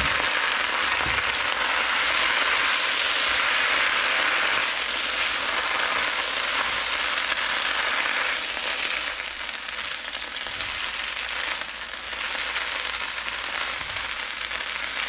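Water spinach stir-frying in a hot pan, hissing hard as a little water just added to the oil boils off. The sizzle is loud for the first half and eases off a bit past halfway, with light clatter and rustle as the greens are tossed with chopsticks.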